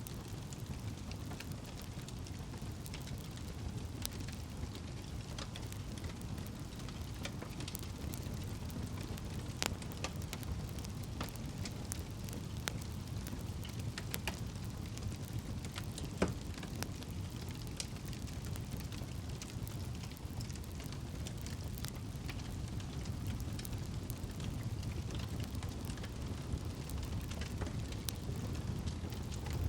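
Campfire burning: a steady low rumble of flames with scattered sharp crackles and pops, one louder pop a little past halfway.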